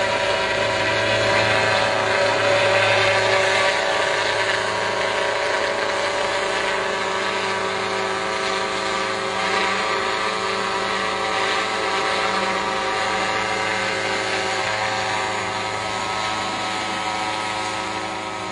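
Multirotor spraying drone in flight, its propellers making a steady, many-toned hum that grows slightly fainter near the end.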